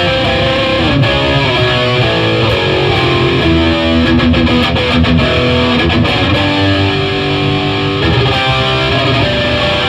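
1972 Gibson Les Paul Custom with humbucking pickups, played through a Line 6 DT50 tube amp with an overdriven tone. It plays a lead line with bent notes about a second in, then long held notes.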